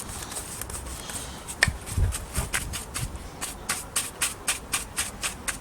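Quick, rhythmic rubbing strokes, about four or five a second, of an applicator working oil finish into the wooden figure, with one sharper tap about a second and a half in.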